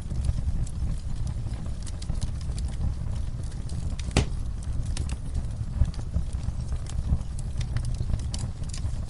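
Wood fire crackling in a fireplace: frequent sharp pops and snaps over a steady low rumble, with one louder pop about four seconds in.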